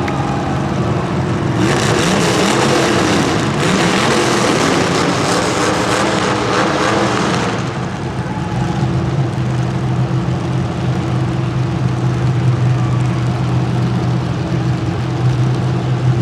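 Racing vehicle engines running. A loud, rough stretch of noise lasts from about two to seven and a half seconds in, then a steady low engine note carries on.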